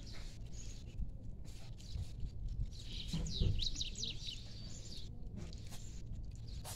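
Small birds twittering: a quick run of high chirps about three seconds in, with fainter chirps around it.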